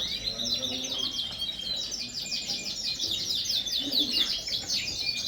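A roomful of Yorkshire canaries chirping and twittering at once: a dense run of quick, high, downward-sweeping chirps, busiest in the second half.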